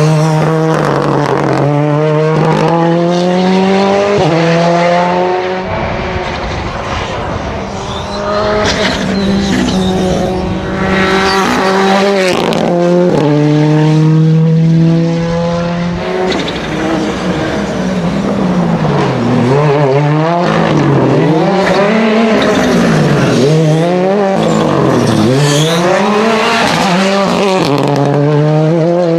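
Rally car engine under hard acceleration, revs climbing and dropping back at each gear change through the first half. Later the revs rise and fall in a quick repeated pattern, about once every second and a half.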